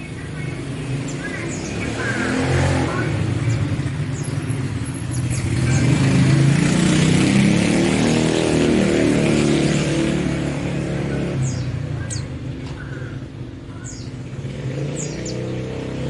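A motor vehicle passing by: its engine note grows louder toward the middle and then fades away. Small birds chirp over it.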